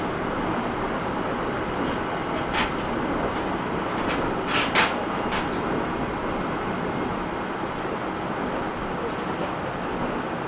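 Interior running sound of an E127 series 0 electric multiple unit under way: a steady rumble and hiss of wheels on rail, with a few sharp clicks, several of them together about four and a half to five and a half seconds in.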